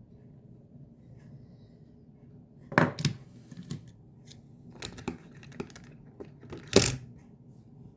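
A small diecast model truck with a metal base being handled: a few sharp clicks and rustles, loudest about three and seven seconds in.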